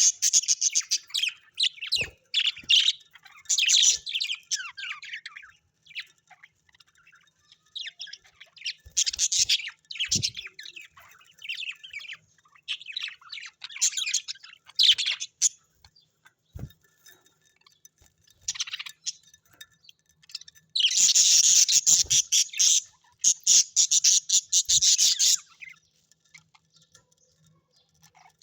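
Birds chirping and twittering in irregular bouts of rapid high calls with short pauses. About two-thirds of the way in there is a dense, loud run of chirping lasting about four seconds.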